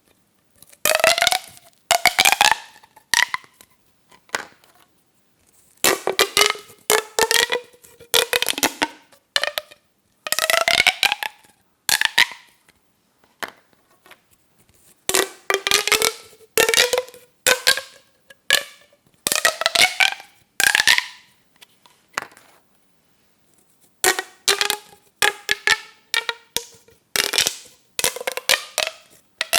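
Plastic pop tubes being stretched and squashed, their ribbed sections snapping open and shut in quick runs of pops with a pitched tone that rises through each run. The runs come in short bursts with brief pauses between them.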